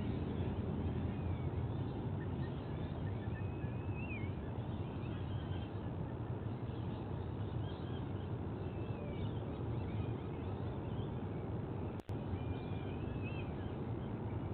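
Steady low outdoor rumble of wind and distant background noise, with faint, scattered chirping bird calls over it. The sound cuts out for a moment about twelve seconds in.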